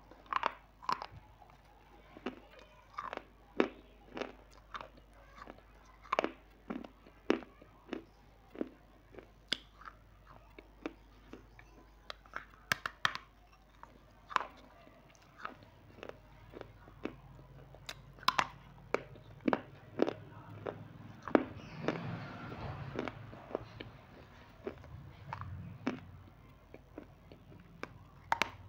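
Close-miked crunching and chewing of a crunchy snack: a steady run of sharp, short crunches, about one or two a second. A denser stretch of chewing noise comes about two-thirds of the way through.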